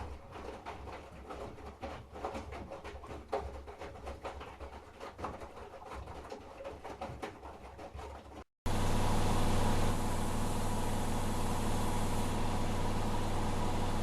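Candy GrandO Plus washing machine: the drum turning at low speed with irregular soft knocks and clicks over a low hum. About eight and a half seconds in, the sound cuts to a louder, steady motor hum and whine, typical of the high-speed spin.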